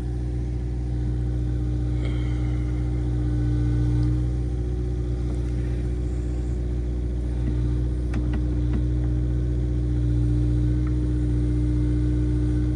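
Kubota excavator's diesel engine running steadily, swelling a little about four seconds in and again near ten seconds as it works, with a few light knocks a little past the middle.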